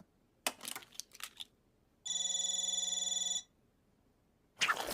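Telephone ringing: one steady electronic ring lasting over a second, after a few short clicks near the start.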